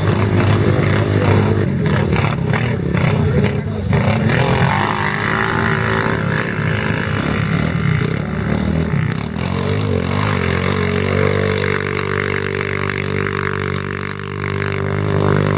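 Quad bike engines running and revving, the pitch rising and falling, then holding a steady drone for the last few seconds.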